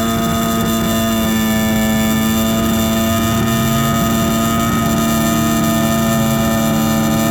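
Motorcycle engine running at high revs, holding one steady, high-pitched note after a quick rise in pitch.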